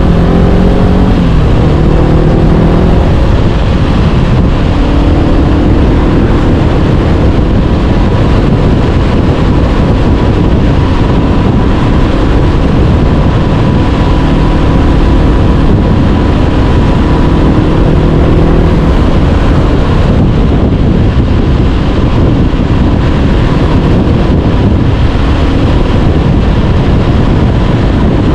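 Honda CB500X's parallel-twin engine running through an Arrow Pro-Race exhaust while riding. The engine note changes pitch in the first few seconds and again around a fifth and two-thirds of the way in, over a steady rush of wind and road noise.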